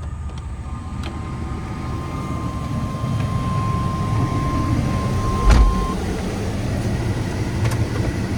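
The 1995 Chevrolet 1500's 4.3-litre V6 running as the pickup is driven, the engine and road noise rising over the first few seconds as it picks up speed. A single thump comes about five and a half seconds in.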